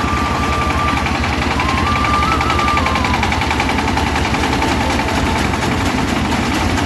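Diesel tractor engine running steadily under load, a rapid even chugging, with a thin high whine that steps up and down in pitch.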